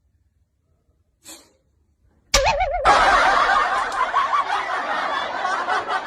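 Loud, sustained laughter that starts suddenly a little over two seconds in, after a brief soft noise.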